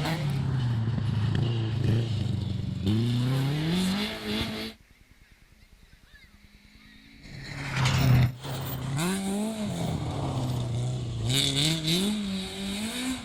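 Rally car engines being revved hard, the pitch repeatedly climbing and dropping as the drivers run through the gears. About a third of the way in the sound cuts to near silence for roughly two seconds. Another car then comes in loud and keeps revving up and down.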